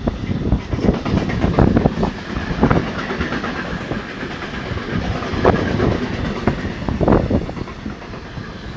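Siemens Vectron-hauled freight train rolling past with a steady low rumble. Its wheels clatter irregularly over the rail joints.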